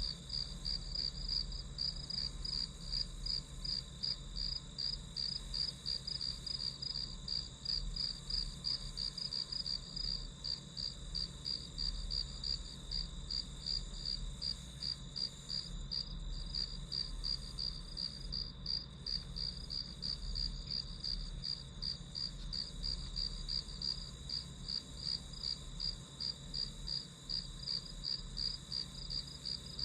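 Crickets chirping in an even, unbroken rhythm of about three chirps a second, with a faint low hum beneath.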